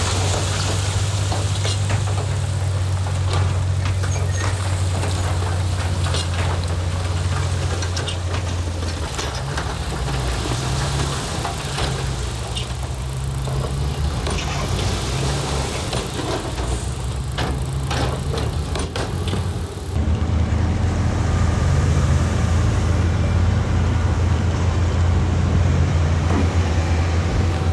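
Heavy diesel earthmoving machinery running at a steady low drone, with scattered sharp clanks and knocks over it. About twenty seconds in the sound shifts abruptly to a steadier, fuller engine note with fewer knocks.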